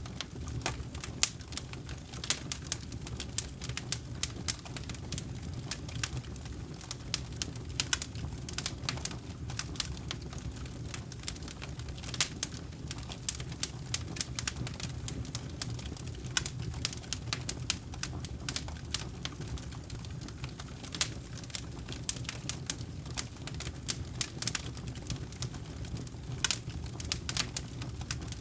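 Wood campfire burning: a steady low rush of flame with frequent, irregular sharp crackles and pops from the burning wood.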